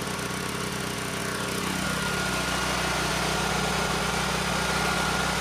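Sportsman 9000-watt portable generator's engine running steadily. About two seconds in, a tone sweeps downward, and the engine then sounds a little louder and fuller with a steady high whine.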